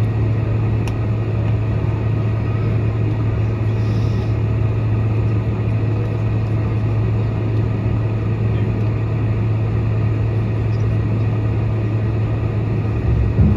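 Steady low drone inside the cabin of a Boeing 747-400 as it taxis to the gate, a constant hum with an even rush of air above it.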